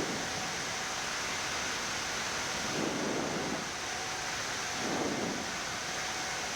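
Steady hiss of a Boeing 787 flight deck's ventilation and equipment fans during taxi, with a few faint steady hums. A low rush swells twice, about two seconds apart.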